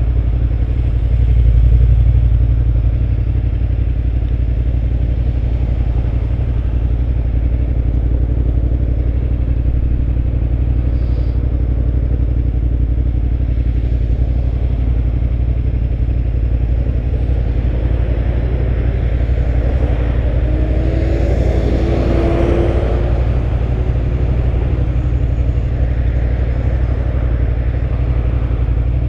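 2005 Suzuki SV650's 645 cc V-twin engine running under way on the road, a steady loud low rumble. About twenty seconds in, a rising whine with a rush of noise swells for a few seconds and fades.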